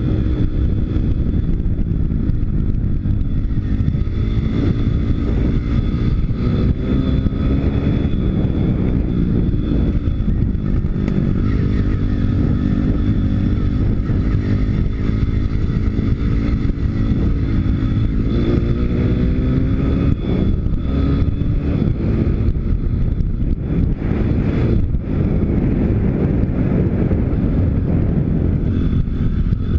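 Pit bike's YX 160 cc single-cylinder four-stroke engine running while riding, its pitch climbing and dropping again and again as the throttle is opened and closed.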